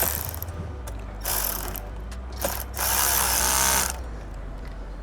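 Ratchet wrench clicking in quick rasping runs as a bolt into a T-nut is tightened, with two main runs of cranking, the second and longest near the middle of the clip.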